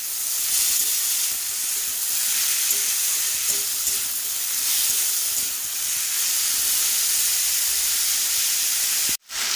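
Julienned potatoes sizzling in hot oil in a kadai while a metal spatula stirs them. The sizzle is steady and cuts out for a moment near the end.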